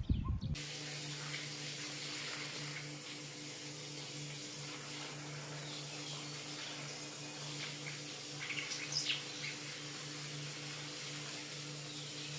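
Steady hiss with a low hum underneath, and a short cluster of faint bird calls about eight to nine seconds in.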